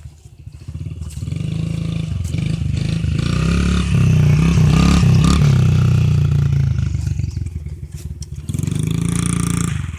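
Dirt bike engine revving up and down, its pitch rising and falling; it grows louder through the first half, eases off about seven seconds in, then revs again briefly before dropping away near the end.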